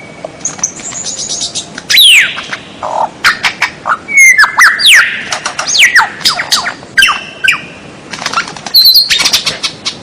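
Songbird song in fast succession: quick falling whistles, short high trills and sharp clicking notes.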